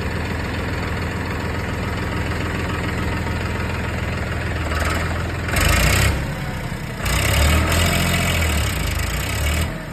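Farmtrac 39 Pro Maxx tractor's diesel engine idling steadily, then revved up twice: briefly about five and a half seconds in, then for a couple of seconds after.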